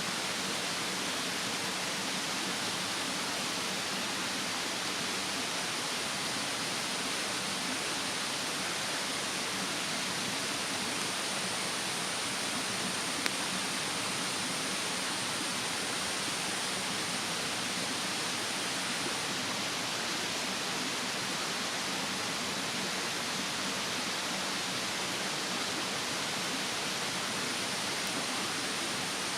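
Steady rushing of a mountain stream, with a faint high insect drone that stops about two-thirds of the way through. A single small crackle from the bonfire comes about halfway.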